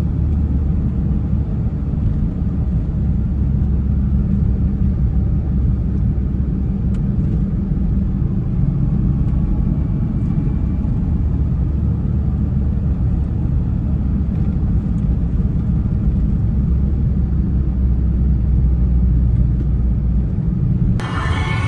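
1996 Toyota Tacoma pickup driving, its engine and exhaust giving a steady low drone with no revving. Music cuts in near the end.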